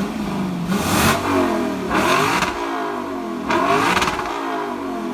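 Car engine revving: its pitch climbs and falls back about three times, each climb topped by a loud exhaust rasp.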